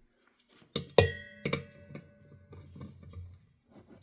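Metal parts of a ceiling fan being handled: a few sharp clinks about a second in, the loudest ringing briefly like struck metal, followed by lighter taps and rattling.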